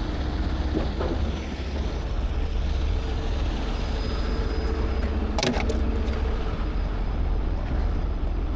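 Heavy truck's diesel engine idling steadily, with two short sharp sounds about five and a half seconds in.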